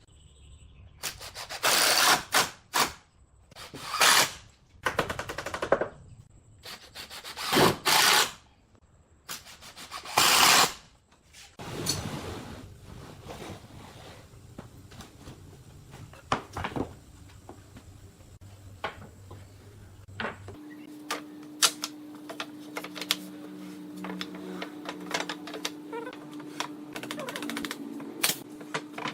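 Woodworking shop sounds: a run of short, loud bursts of noise, then many quick clicks and taps. A steady hum comes in about two-thirds of the way through.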